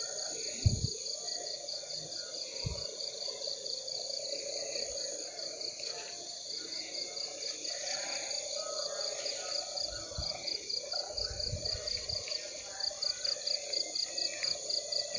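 Night insect chorus: a cricket chirping in an even pulse of about four chirps a second over a constant high buzz of other insects. A few soft low thumps come through around the start and again past the middle.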